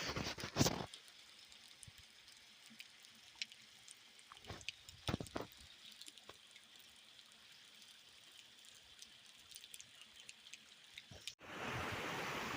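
Rain dripping: scattered drops tapping, with a few louder strikes near the start and around five seconds in. About eleven seconds in it cuts suddenly to a steady rushing noise.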